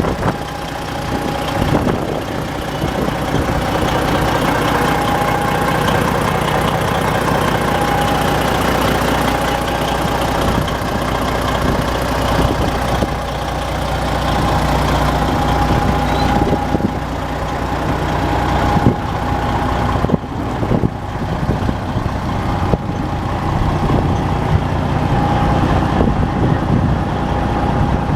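Diesel engine of a 1996 International truck tractor idling steadily, with a thin steady whine sitting above the rumble.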